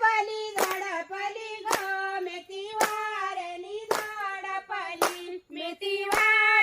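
Live folk singing, a voice holding long sustained notes, over a steady beat of sharp hits about once a second.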